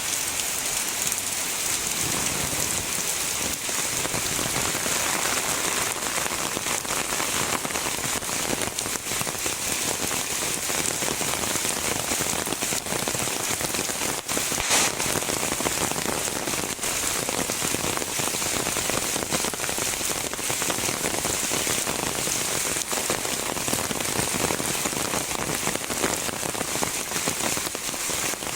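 Heavy rain falling steadily, a dense even hiss of drops, with one brief louder moment about halfway through.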